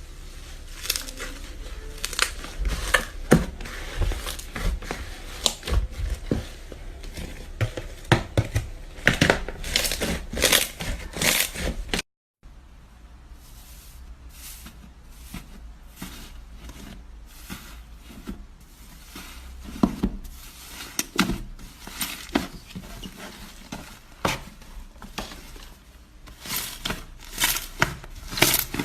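Slime being squeezed and played with by hand, giving many irregular crackling pops and crunches. A brief cut to silence falls about twelve seconds in.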